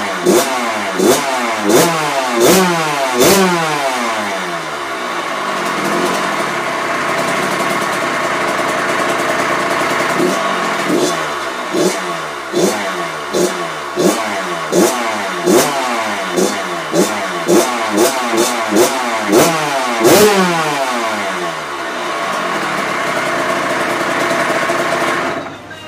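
Kawasaki KX85 two-stroke single-cylinder engine, freshly tuned up, revved in quick repeated blips, its pitch rising and falling about once or twice a second, with a steadier stretch a few seconds in. The sound cuts off just before the end.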